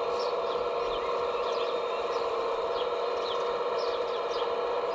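Steady, even whine of a radio-controlled construction model's electric motor running at constant speed, with birds chirping over it in short downward-sweeping calls.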